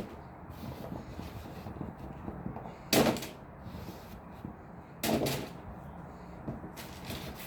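Diced potatoes tipped onto a parchment-lined baking sheet, landing in two short clattering pours, about three and five seconds in, with light knocks in between.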